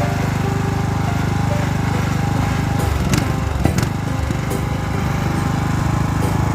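Small gasoline engine running steadily at constant speed, with a few sharp clicks and a brief dip about three to four seconds in.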